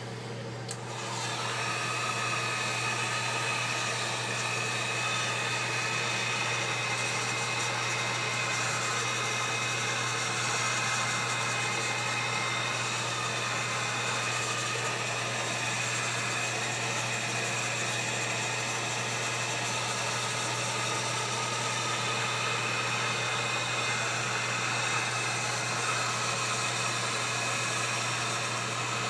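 Heat gun switched on about a second in and running steadily, blowing hot air to heat-activate the adhesive under a newly fitted tablet digitizer glass.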